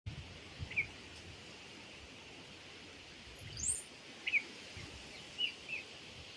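Small birds chirping: a few short, separate chirps spread through, and one higher, sweeping call about three and a half seconds in. Under them is a faint steady outdoor background with a few soft low bumps.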